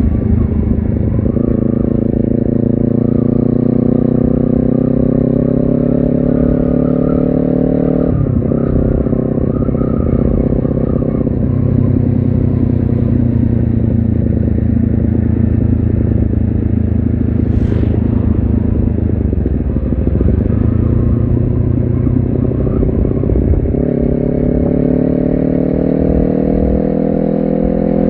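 Honda CBR250RR engine and exhaust pulling through the revs, the pitch rising steadily, then dropping sharply at a gear change about a third of the way in. Another shift comes near the end, followed by another rising pull.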